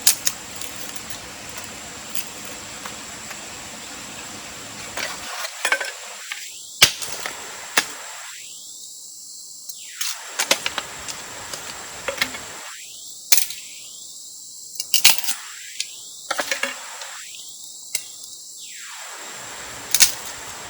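Irregular sharp clicks and knocks, a dozen or so, some in quick clusters, over a steady background hiss with a thin high whine.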